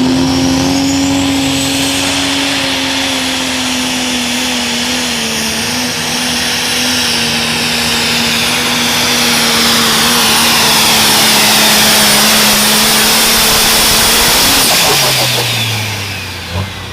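Turbocharged diesel engine of a pro stock pulling tractor held at full power down the track, with a high, steady turbo whistle over the engine. About fifteen seconds in, the power comes off and the engine and turbo wind down together, falling in pitch.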